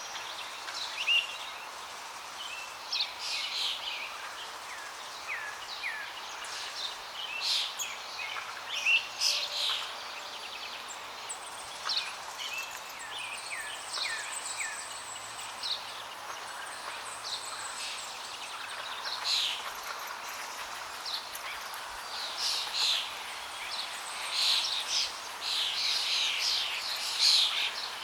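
Several birds chirping and calling over a steady rush of flowing water; the chirps come thicker near the end.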